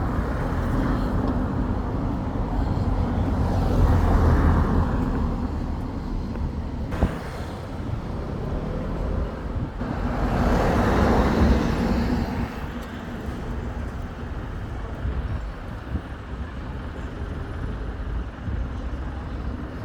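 Road traffic: a steady hum of traffic with two vehicles passing close by, one about four seconds in and another around eleven seconds, each swelling and fading away.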